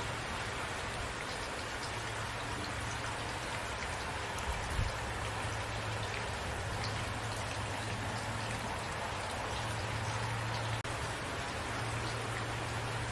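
Steady rainfall, an even hiss of rain with individual drops ticking through it and a low steady rumble underneath. The sound drops out for an instant about eleven seconds in.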